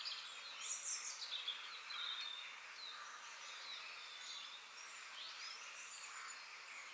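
Several songbirds chirping and calling in quick, short phrases over a steady high hiss of outdoor ambience, busiest in the first two seconds.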